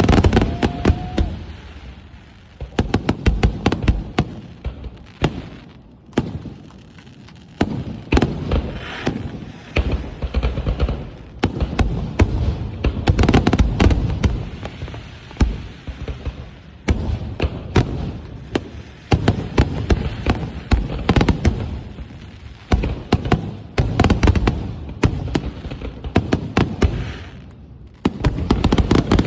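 Fireworks show: waves of rapid bangs and crackles from exploding aerial shells, coming thick and fast with a few brief lulls between volleys.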